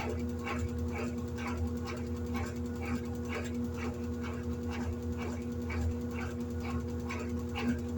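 Electrolux LED14 top-loading washing machine running a wash cycle: a steady motor hum under a rhythmic beat of short agitation strokes, about two a second.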